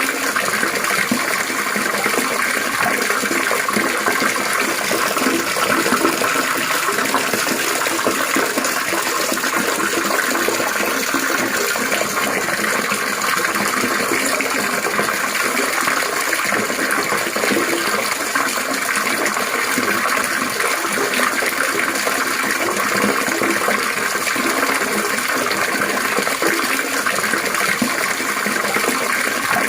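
Water trickling and splashing steadily, an even, unbroken burble.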